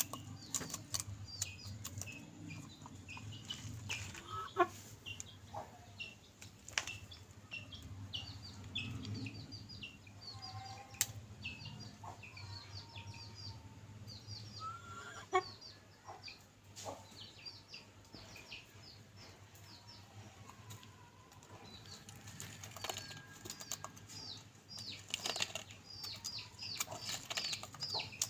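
Chickens feeding: a steady run of short, high cheeps from chicks, with a few lower clucks and scattered sharp pecking taps. There is a flurry of wing flapping near the end.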